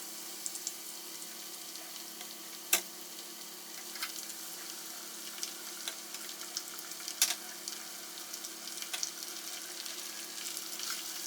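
Skewered potatoes frying in hot oil: a steady sizzle with scattered sharp pops of spitting oil, two of them louder than the rest, about three seconds in and again past halfway.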